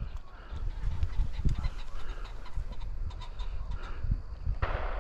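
Short, faint calls of pheasants over wind buffeting the microphone, with a broad hiss rising near the end.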